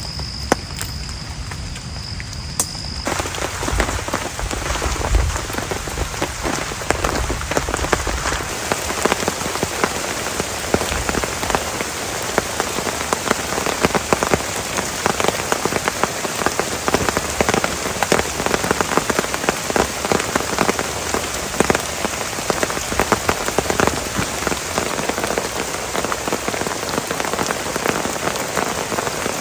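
Heavy rain pouring steadily, with a dense patter of drops striking close by. It comes in abruptly about three seconds in, replacing a quieter stretch with a steady high whine and a low rumble.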